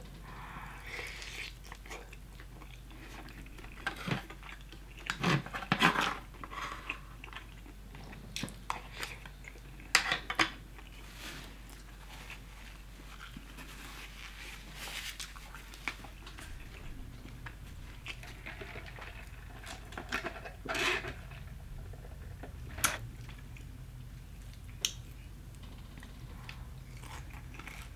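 A person eating Popeyes fried chicken close to the microphone: chewing, with scattered crisp crunches of the breading every few seconds.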